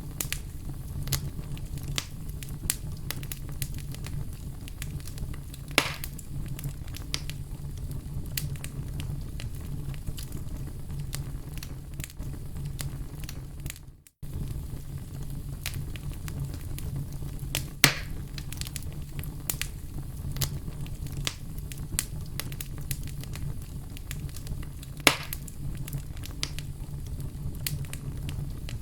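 Wood fire crackling: a steady low rumble under constant small pops and snaps, with a few louder pops. The sound fades and drops out for a moment about halfway through.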